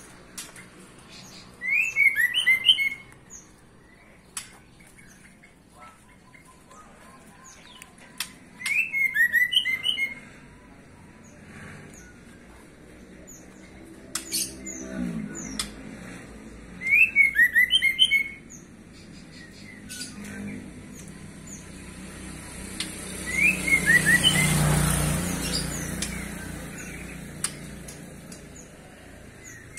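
A songbird sings a short, loud phrase of quick chirps four times, about every seven seconds, with fainter high chirps from other birds between. Near the end a rush of noise swells and fades over several seconds.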